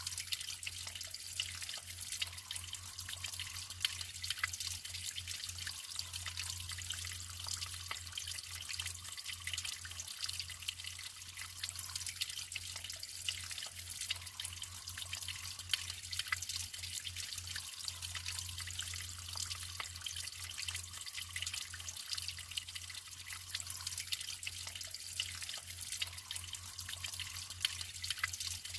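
Natural running water trickling and splashing steadily, with many small drip-like splashes scattered through it. A faint steady low hum sits underneath.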